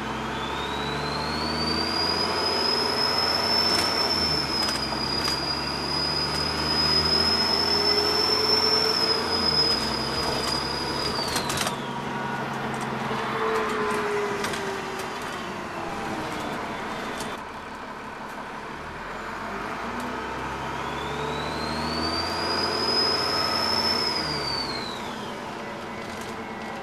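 Dennis Trident double-decker bus with Alexander ALX400 body accelerating, its turbocharger whistle rising to a high steady pitch and holding for about ten seconds before falling away. The engine note changes in steps underneath. A second, shorter rise and fall of the whistle comes about three-quarters of the way through.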